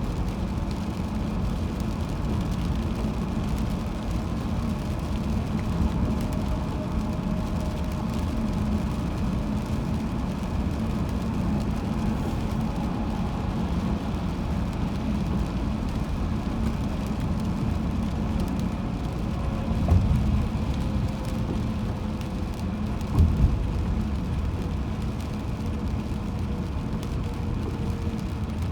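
Steady road and engine noise of a car driving on the highway, heard from inside the cabin. There are two brief thumps, one about two-thirds of the way through and a double one shortly after.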